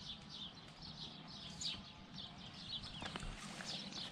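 Small birds chirping: many short, high calls in quick succession over faint outdoor background noise.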